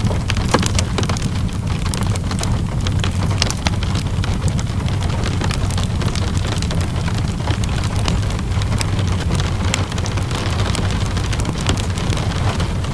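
Steady rainfall mixed with a crackling wood fire: an even hiss and low rumble, with frequent sharp crackles and pops scattered throughout.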